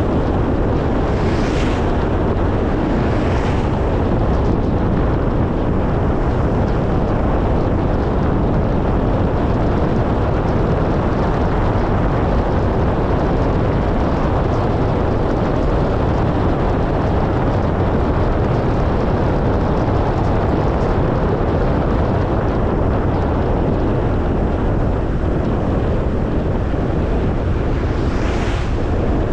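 Car driving: steady road and wind noise with a low rumble, and three short swells of hiss, about a second and a half in, a couple of seconds later, and near the end.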